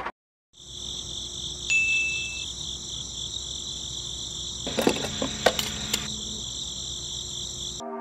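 Crickets chirring steadily in a high, even drone, with a few sharp clicks about five seconds in; it cuts off abruptly near the end.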